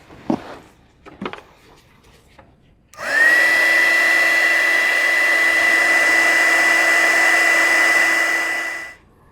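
Electric heat gun switched on about three seconds in: its fan whine rises quickly to a steady pitch over a loud rush of blown air, runs for about six seconds, then is switched off.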